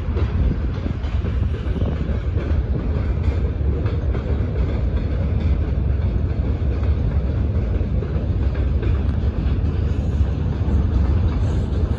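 Freight train of open gondola wagons rolling past on the rails: a steady low rumble of wheels and wagons with a faint clatter.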